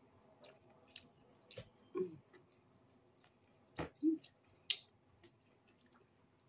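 Close-up eating sounds of a person chewing a meal of fried fish and rice: wet mouth sounds with sharp clicks and smacks scattered throughout, and two brief low hums about two and four seconds in.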